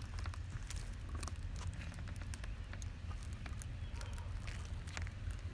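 A steady low hum with many faint, irregular clicks and crackles over it.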